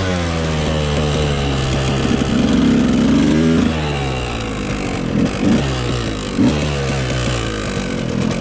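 Dirt bike engine running while being ridden, its pitch falling and rising with the throttle, with a few quick throttle blips about two-thirds of the way in.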